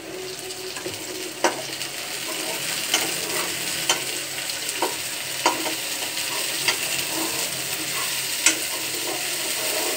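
Chopped onion and vegetables sizzling in oil in a non-stick wok, the hiss starting up as the vegetables are tipped in. A metal spatula stirs them, with sharp knocks against the pan every second or two.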